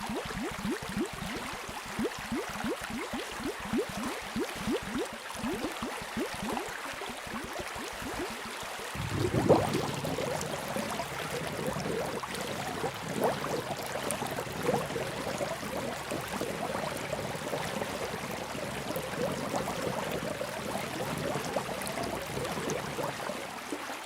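Underwater bubbling: a rapid string of small bubble blips for about the first nine seconds, then a denser, steady gurgling bubble wash.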